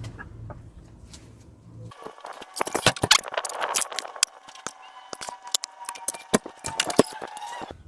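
Small metal hand tools clinking and rattling against one another, a dense run of sharp metallic clicks and clinks with a faint ring, starting about two seconds in.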